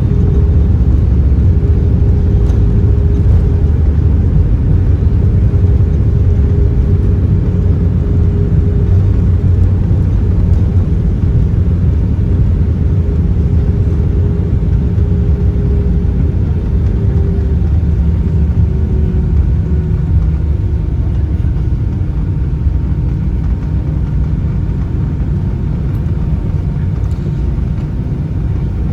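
Cabin noise of an Airbus A320-214 on the ground just after landing: a loud, steady low rumble from its CFM56 engines and the rolling airframe, with a faint engine tone that drops slightly in pitch about two-thirds through as the sound slowly eases.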